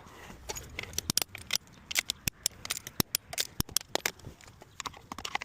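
A rapid, irregular run of sharp metallic clicks and clinks, typical of hand tools and brake parts being handled and set down.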